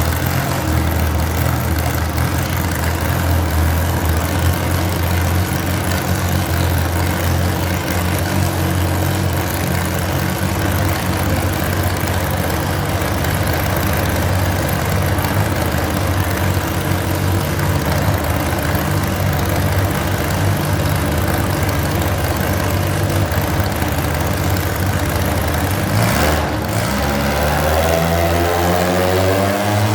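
Garden pulling tractor engine idling steadily, then revving up with a rising pitch in the last few seconds.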